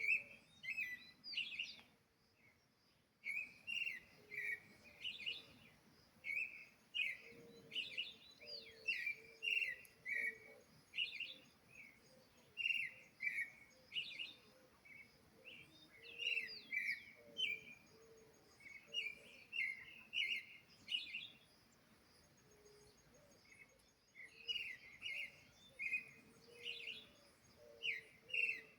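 A sabiá thrush singing: a steady run of short, varied whistled phrases, one after another, broken by a brief pause near the start and another later on.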